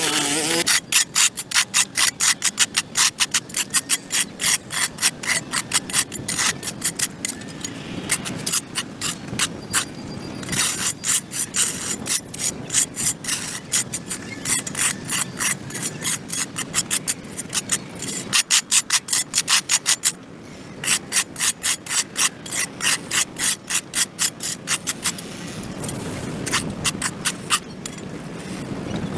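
Rapid, rhythmic scraping of a hand tool across dirt and grass on a concrete sidewalk, about three to four strokes a second, in runs with short pauses.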